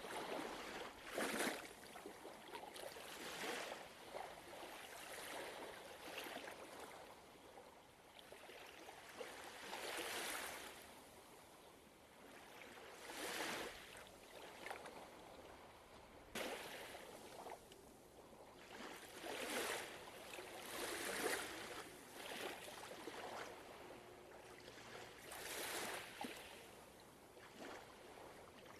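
Gentle ocean waves washing and lapping, each swell of water noise rising and fading every two to three seconds.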